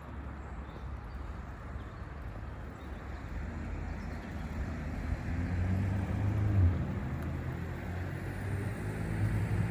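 A car engine running with a low hum, growing gradually louder as the vehicle draws nearer.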